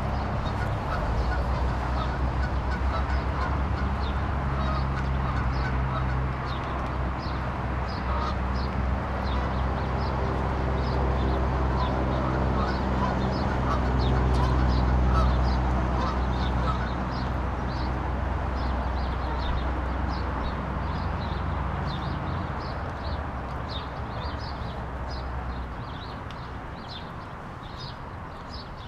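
Birds calling over and over, with a steady low hum underneath that drops away near the end.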